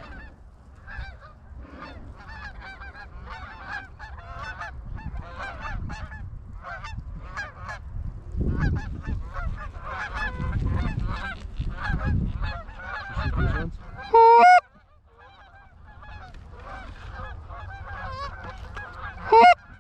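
A flock of geese honking over and around the decoys, many short calls overlapping one after another. Two much louder, closer honks stand out, one about fourteen seconds in and one near the end, over low gusts of wind on the microphone.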